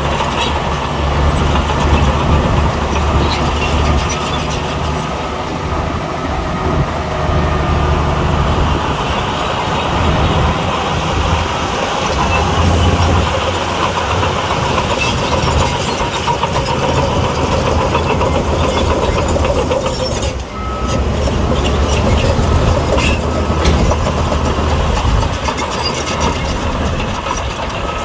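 Heavy crawler bulldozer's diesel engine running under load as it pushes soil, its low engine note rising and easing, with metallic clatter from the tracks.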